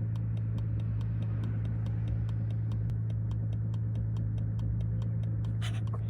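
BMW G82 M4 Competition's twin-turbo straight-six droning steadily, heard from inside the cabin while driving. A fast, even ticking of about five ticks a second runs over it, with a short brighter rustle near the end.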